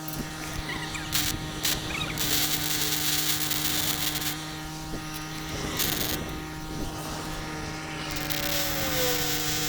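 Arc welding: a steady machine hum under several bursts of welding hiss, the longest about two seconds.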